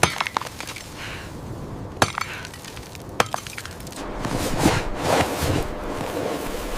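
Sharp knocks, a cluster at the start and single ones about two and three seconds in, then from about four seconds in a rush of noise that swells.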